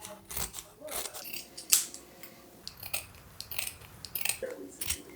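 A series of short, sharp clicks and snaps at an irregular pace, a few a second, from something being handled or cut by hand.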